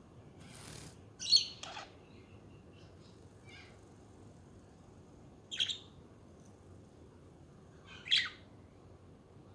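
Budgerigars giving short, sharp chirps: three loud ones a few seconds apart, with a couple of fainter calls between.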